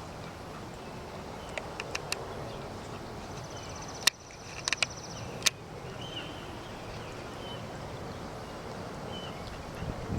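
Faint short bird chirps repeating about once a second over steady outdoor hiss. A brief rapid trill and a few sharp clicks come near the middle.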